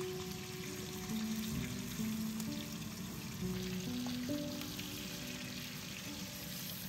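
Food sizzling steadily as it fries in hot oil in a pan, with a slow background melody of held notes over it.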